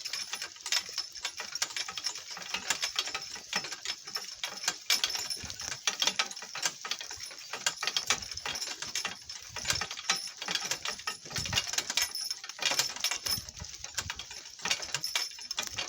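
Donkey cart clattering and rattling steadily as it rolls over rough, bumpy ground, a dense run of irregular clicks and knocks.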